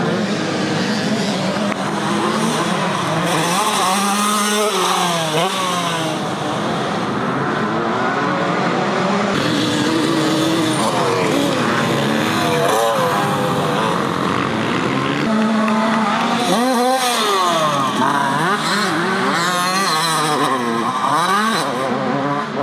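Several motocross bikes racing on the track, their engines revving up and dropping again and again as they accelerate, shift and back off, overlapping one another.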